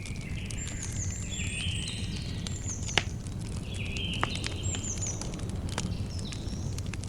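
Campfire crackling with scattered sharp pops, the loudest about three seconds in, over a steady low rumble. Birds call with short, high, falling chirps, and insect trills buzz in drawn-out stretches of about a second behind them.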